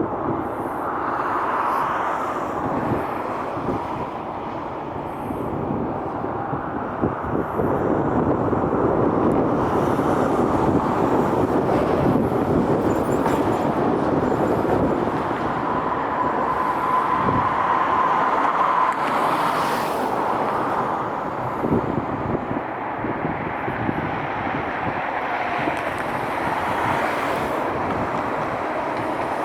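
Jet airliner engines rumbling and swelling as an aircraft passes, with a faint whine near the loudest part, over wind buffeting the microphone.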